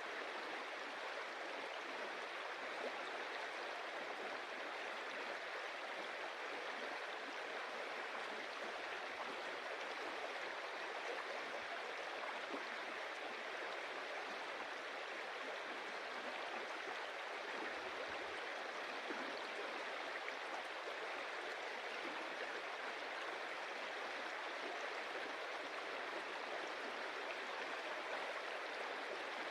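Stream water running and splashing over stones, a steady even rush.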